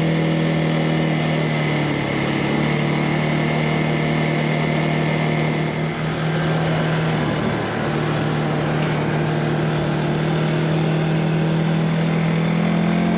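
CFMOTO ATV engine running steadily under way on a trail; its note eases down a little after the start and climbs back near the end as the throttle changes.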